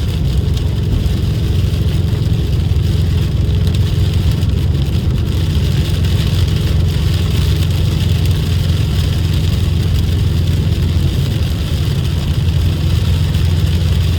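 Subaru WRX's turbocharged flat-four engine running steadily while cruising, a continuous low drone with a steady hiss of road noise over it, heard from inside the car.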